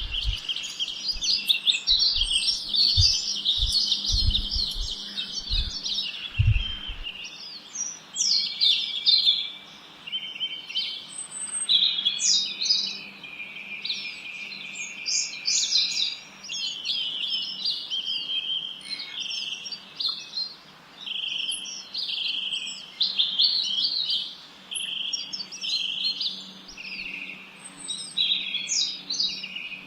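Several songbirds chirping and trilling continuously, their quick calls overlapping into a busy chorus. A few short low thuds sound in the first several seconds, over a faint steady hum.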